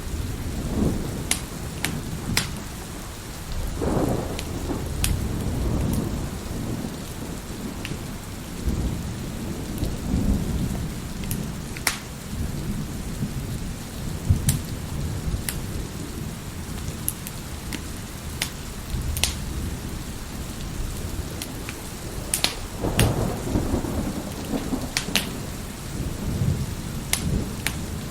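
Fireplace fire crackling with sharp scattered pops over steady heavy rain, with several low rolls of thunder rumbling through.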